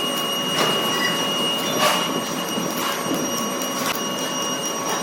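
Heavy-engineering workshop machinery running: a steady mechanical noise with a high whine of several steady tones, and a few sharp metallic knocks scattered through it.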